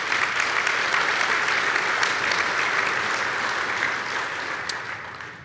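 Audience applauding in a large hall, swelling in, holding steady, then dying away near the end.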